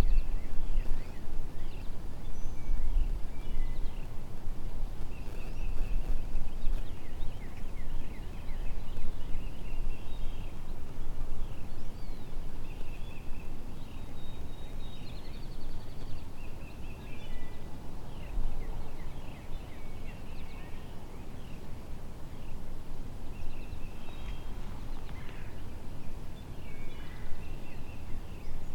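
Songbirds chirping and trilling throughout, over a constant low rumble of wind on the microphone.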